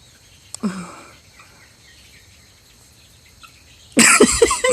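Faint, steady outdoor chirring of crickets or other insects, with a brief call about half a second in. Near the end a sudden loud, rough burst of sound takes over.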